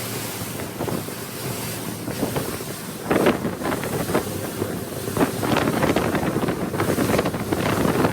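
Twin 300 hp outboards running at speed on a 28-foot center-console boat carving a hard turn in choppy water, under heavy wind buffeting on the microphone and the rush of water along the hull. From about three seconds in it gets louder and rougher, with gusts and splashes.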